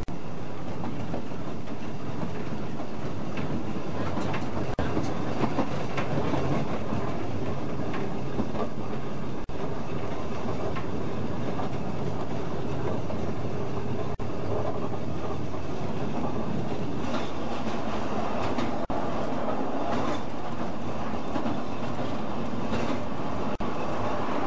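Narrow-gauge Ffestiniog Railway train heard from on board, running along the track: a steady rumble with the wheels clicking irregularly over the rail joints.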